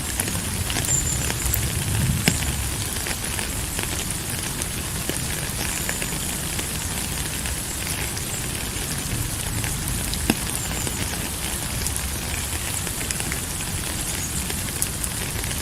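Steady rainfall: an even hiss of rain with a low rumble and many scattered, sharper drop ticks.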